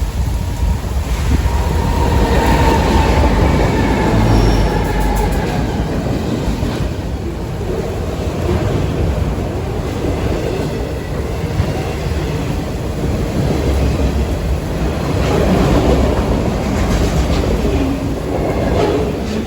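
A train rolling past, a steady rumble of wheels on rail with some clickety-clack, and faint wheel squeal in the first few seconds.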